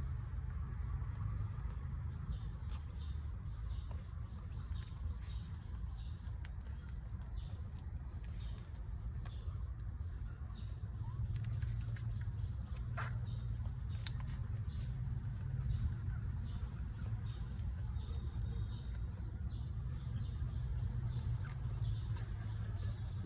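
Newborn puppies giving scattered faint squeaks, over a steady low rumble.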